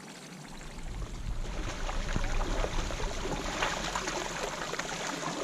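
Kayak paddle strokes: the blades dipping in and out of the water with splashing and dripping, building up about half a second in. A low rumble sets in at the same time.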